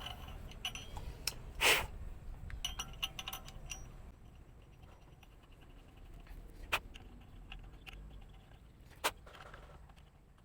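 Metal parts and tools being handled on a workbench: scattered light clinks, with a sharp knock just under two seconds in and two more later.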